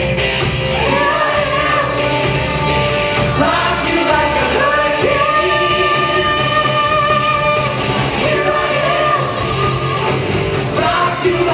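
Rock song playing: a singer holds long notes, one held steadily through the middle, over a full band with drums.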